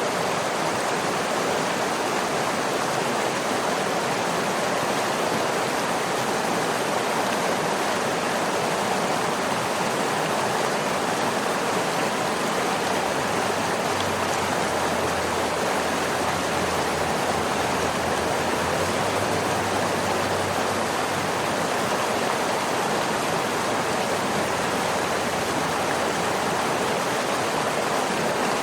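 Waterfall: falling water rushing as a steady, unbroken noise, with no individual splashes.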